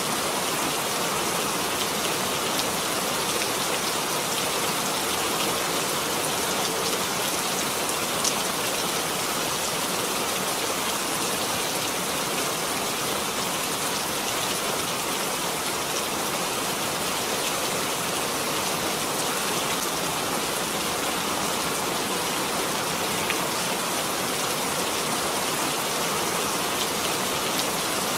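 Steady rain falling on surfaces, an even continuous hiss with the odd single drop ticking out.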